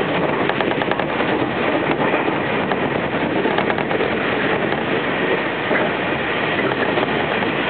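Steady running noise of an electric commuter train at speed, heard from inside the passenger car: wheels on the rails and the car's rumble.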